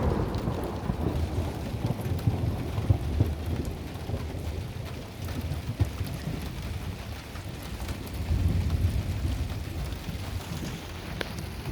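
Heavy thunderstorm rain falling steadily, with thunder rumbling underneath; the rumble swells near the start and again about eight seconds in.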